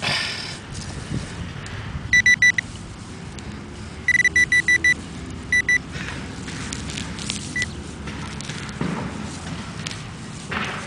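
Metal detector giving short, high beeps in quick groups: three about two seconds in, five or six a couple of seconds later, then two more, as it passes over a buried coin it has located. Soft scraping of dirt in between.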